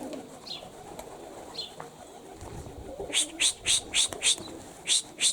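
Pigeons at the loft, with a few faint chirps at first, then from about three seconds in a quick run of sharp high-pitched chirps, about four a second.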